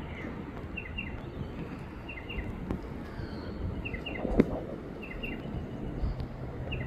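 A bird repeating a short chirping call, each call a quick pair of high chirps, about every second and a half over outdoor background rumble. A single sharp knock about four seconds in, and a faint steady low hum comes in near the end.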